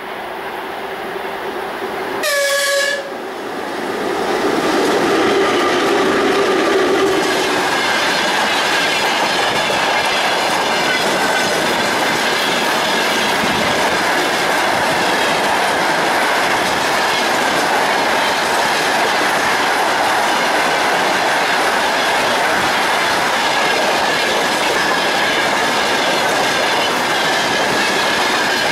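A short horn blast from a VL10 two-section DC electric locomotive about two seconds in, then the locomotive and a long freight train of tank cars and open wagons roll past close by, their wheels clattering steadily over the rails.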